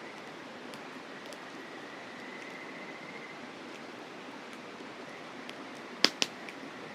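Campfire crackling with scattered small ticks, then two sharp, loud pops close together about six seconds in, over the steady rushing of a mountain river and a faint high insect trill.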